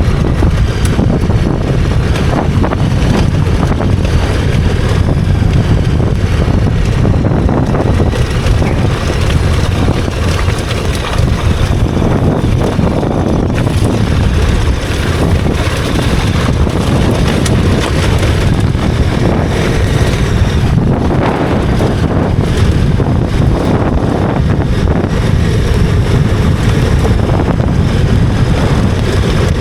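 Steady wind rush on the microphone of a moving motorcycle, the KTM 1290 Super Adventure R's V-twin engine and road noise running underneath.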